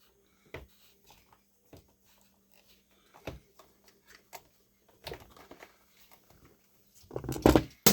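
Scattered light clicks and taps of parts being handled and fitted back into a carpet shampooer's pump housing, then a louder clatter near the end as something drops.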